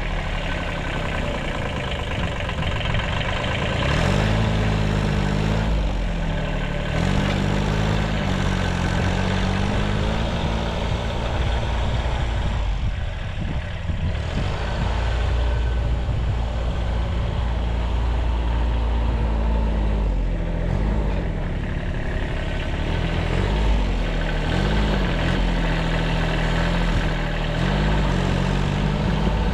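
A 1978 Kubota B6100 compact diesel tractor running, its engine speed rising and falling several times as it works.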